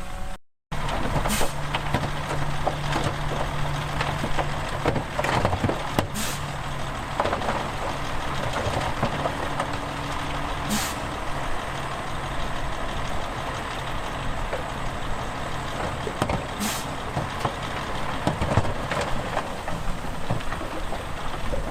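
Heavy diesel machinery running steadily, with a short hiss of released air four times, about every five seconds.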